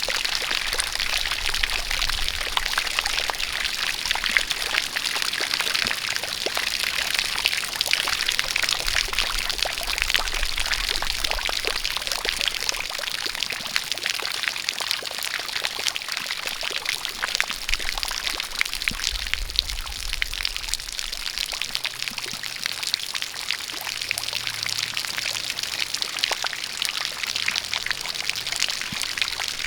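A steady jet of water pouring and splashing, with rain falling, dense with small droplet ticks.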